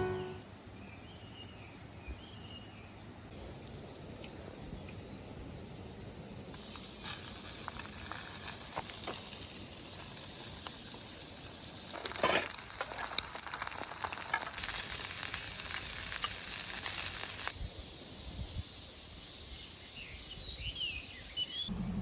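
Food sizzling and crackling as it fries at a camp stove or fire. A louder, denser stretch lasts about five seconds past the middle, and faint bird chirps come near the start and the end.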